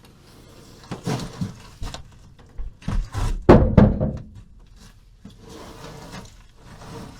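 Hay bales being handled and stacked in a small barn: a run of thuds and knocks with straw rustling, the heaviest thud about three and a half seconds in, then lighter rustling.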